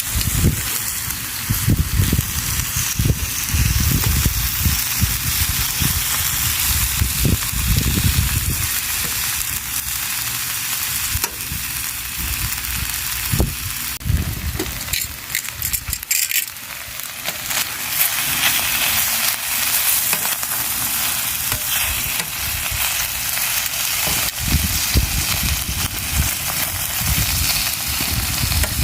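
Beef fillet sizzling on a grill over a wood fire in a fire pit: a steady hiss with scattered crackles and pops, and bursts of low rumbling in the first several seconds and again near the end.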